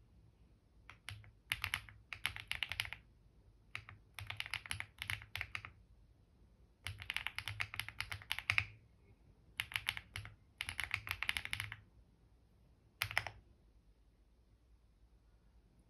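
Typing on a computer keyboard: quick runs of key clicks broken by short pauses, stopping a little after halfway through the last third.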